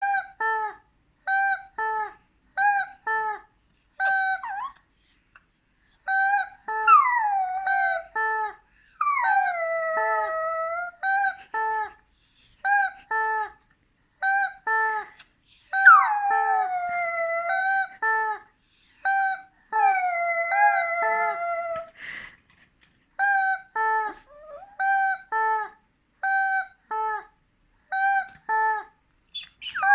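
A dog howling in long calls that slide down in pitch, four times. Under the howls runs a string of short, identical squawks, about two a second.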